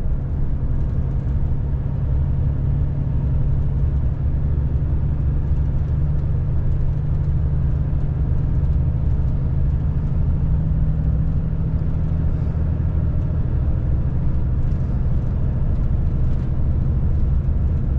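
Volvo FH540 truck's 13-litre straight-six diesel running as a steady low drone, pulling the truck along a climb.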